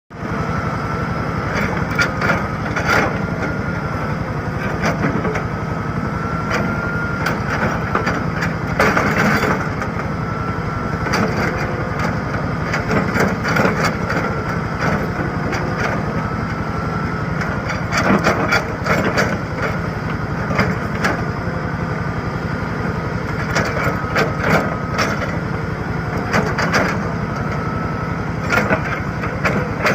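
Excavator engine running steadily under load, with a wavering whine and irregular sharp cracks and crunches as it breaks up concrete.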